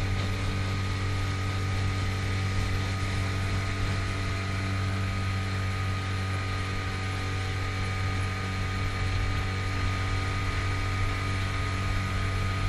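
Mercury 9.9 hp outboard motor running at a steady speed, a constant hum that holds one pitch throughout.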